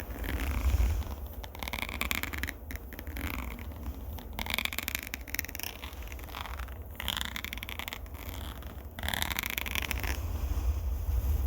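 Close-up scratching and rubbing on a microphone for ASMR: a series of rough, rasping strokes over a steady low rumble from the mic being handled.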